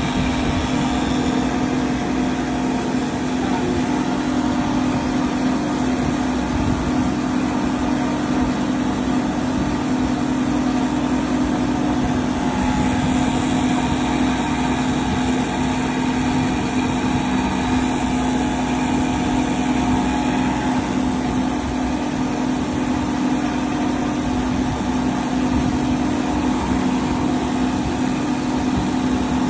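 Steady machine hum with a strong low tone and higher overtones, like a small motor running.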